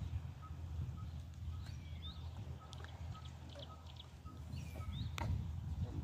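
Wild birds calling: a short pip repeated about three times a second, with higher chirps and falling whistles over it, above a steady low rumble. A single sharp click about five seconds in.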